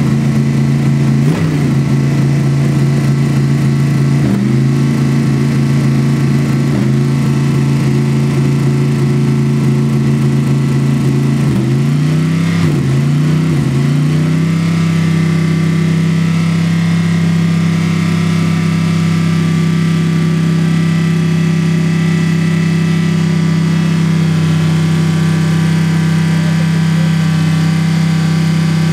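Mercedes-Benz SLS AMG GT3 race car's V8 engine idling, with a handful of short throttle blips over the first half, three of them in quick succession, before it settles into a steady idle.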